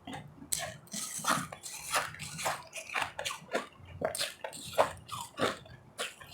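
Ice being chewed close to the microphone: a steady run of crisp crunches, about two a second.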